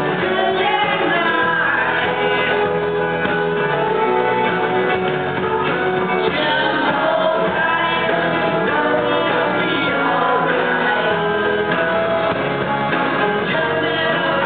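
Live band performing a song with singing.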